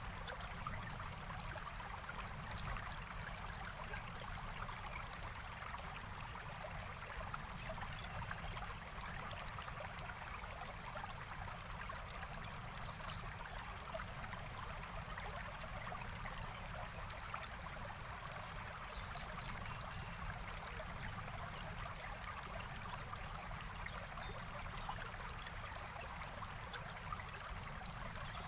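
A small forest stream flowing, a steady rush and trickle of running water.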